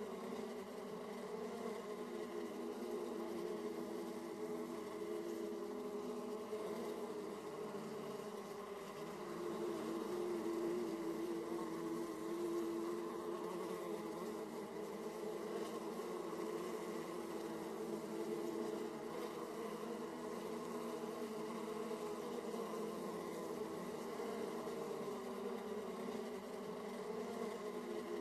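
Honey bees buzzing at the entrance of their hive: a steady, dense hum of many bees at several slightly different, wavering pitches.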